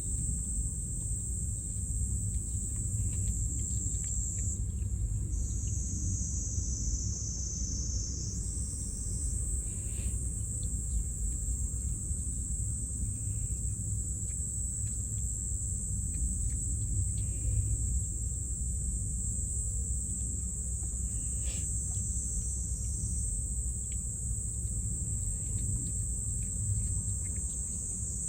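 A steady, high-pitched chorus of insects chirring without a break, over a low background rumble.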